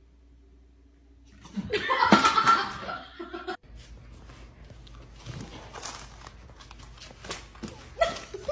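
A burst of human laughter lasting about two seconds, followed by faint scattered clicks.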